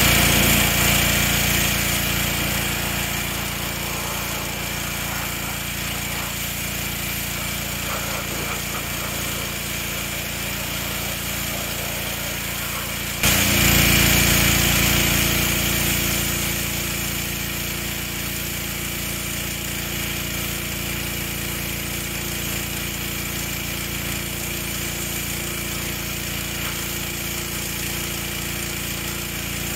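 Pressure washer running steadily, its spray blasting the painted fiberglass to see whether the paint and primer hold. It starts abruptly, gets louder suddenly about thirteen seconds in, then settles back.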